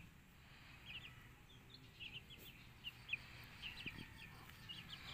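Faint bird chirping: many short, high chirps in quick irregular succession, with nothing else above a low background hiss.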